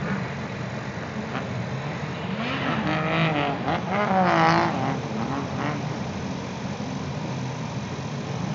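Drift car engines revving, their pitch swinging up and down over a steady engine drone, busiest and loudest about three to five seconds in.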